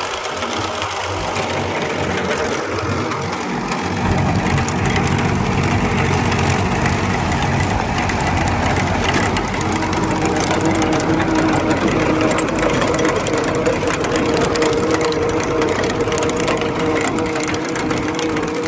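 Tractor diesel engine running, driving a rear backhoe attachment. It gets louder about four seconds in, and a steady whine joins about ten seconds in.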